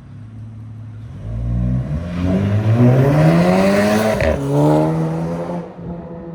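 Car with a resonator and muffler delete accelerating hard: the engine's revs climb for about three seconds, drop sharply at a gear change about four seconds in, climb again briefly, then ease off.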